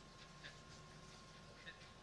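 Near silence: faint room tone with a thin steady tone and a few faint small ticks.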